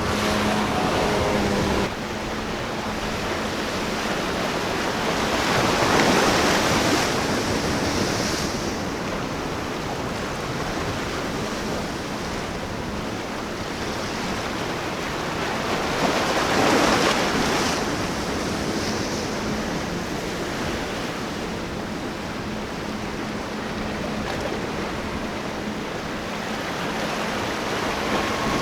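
Ocean surf and wind on the microphone, with two waves breaking, about 6 and 17 seconds in. A boat engine is heard for the first two seconds and then cuts off abruptly.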